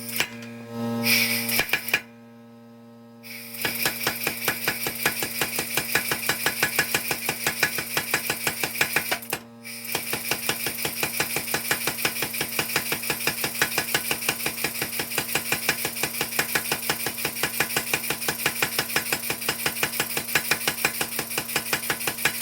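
Mechanical power hammer striking a hot steel bar in rapid, evenly spaced blows as it shapes the reins of blacksmith tongs, over a steady hum. The blows start about three and a half seconds in and break off briefly about nine and a half seconds in.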